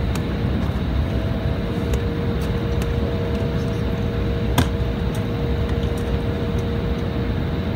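Cabin noise of an Embraer E175 airliner with its GE CF34 turbofan engines running: a steady rush of engine and air noise with a constant hum, and one sharp click about four and a half seconds in.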